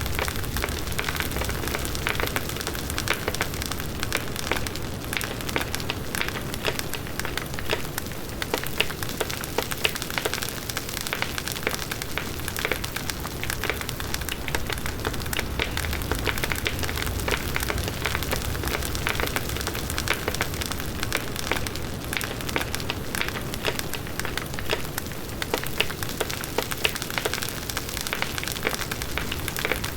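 Large bonfire burning, with burning wood crackling and popping constantly over the low rush of the flames.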